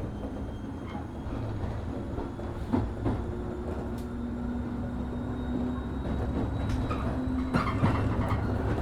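Running sound of a 103 series 1500-subseries electric train heard from inside the car: steady rumble of wheels on rail and traction motors, with a faint motor hum in the middle and a few knocks as the wheels pass over rail joints.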